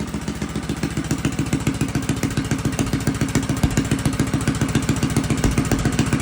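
Briggs and Stratton small engine running at a steady low speed with an even, rapid chug, a little louder from about a second in. It is being run in during its break-in period.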